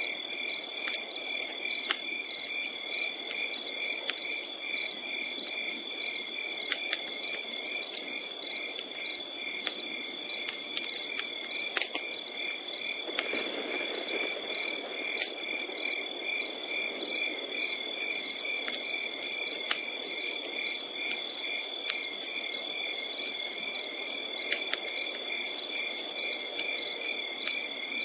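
Crickets chirping in an even, quick rhythm over a continuous high trill, with the scattered sharp snaps and pops of a crackling campfire.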